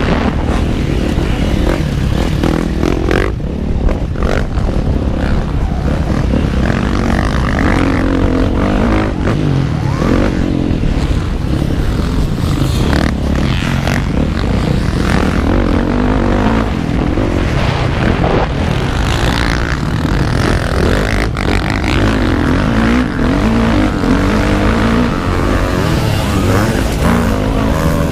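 Motocross bike engine running hard on a track, heard from on the bike, its revs rising and falling over a dense low rumble, with occasional short knocks.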